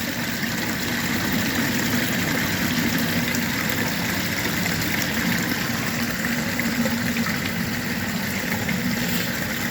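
Wayne submersible sump pump running continuously, with water churning in the sump and a faint steady hum. The float switch no longer cycles, so the pump runs flat out just to hold the water level against the inflow.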